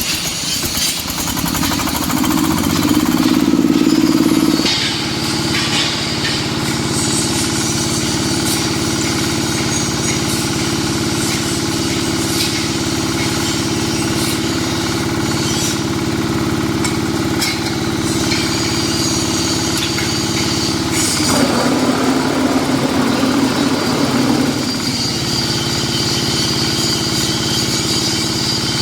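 Diesel engine of a hydraulic concrete block making machine running steadily. It gets louder for a couple of seconds near the start, and a harsher, noisier stretch of a few seconds comes about three quarters of the way through, with scattered sharp clicks.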